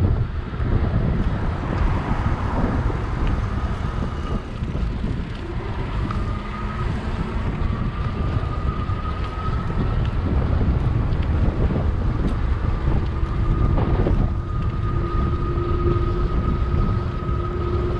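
Wind buffeting the microphone while riding an electric bike, a loud steady rumble, with a faint steady whine drifting slightly in pitch over it.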